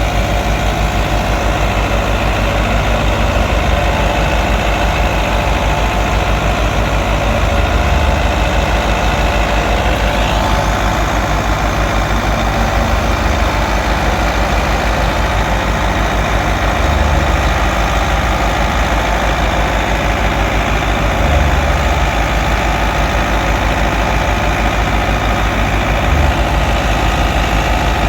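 Fiat 640 tractor's four-cylinder diesel engine running steadily, driving a wheat thresher, with the thresher's steady machine hum over the engine beat. A few brief, heavier low surges come through.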